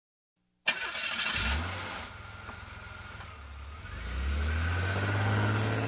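Car engine sound effect: a sharp start less than a second in, then the engine revs up, drops back, and revs up again, pulling away.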